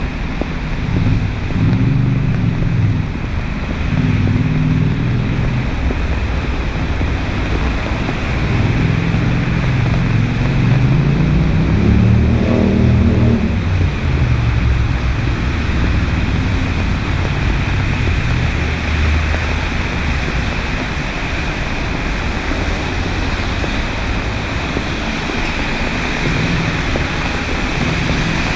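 Road traffic: cars going by over a steady hiss, with one passing close about twelve seconds in, its sound rising and then falling away.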